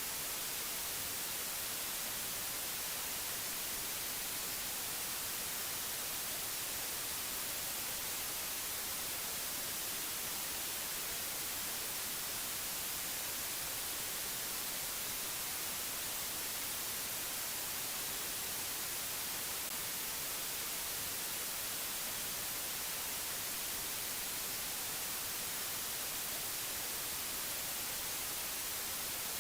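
Steady, unchanging white-noise hiss, strongest in the high treble, with no other sound in it.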